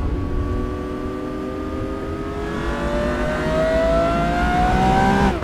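Lamborghini Aventador SVJ's V12, fitted with an aftermarket Brilliant exhaust, pulling hard in one gear, its note climbing steadily. Near the end the pitch drops sharply at an upshift.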